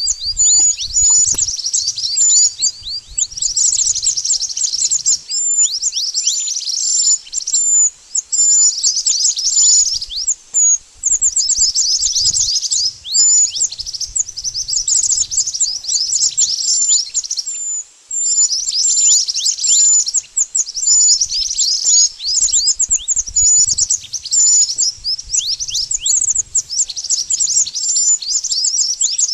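Mantenan, a flowerpecker, calling continuously: rapid runs of very high, thin chips and short falling notes, repeated over and over with only brief gaps, as used for a bird-trapping lure call.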